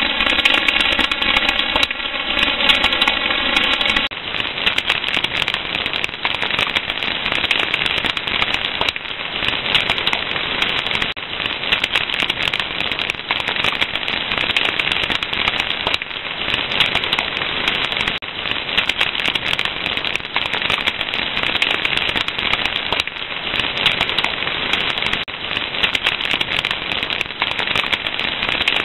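Wood fire crackling steadily, with a dense run of small snaps and pops from the burning logs.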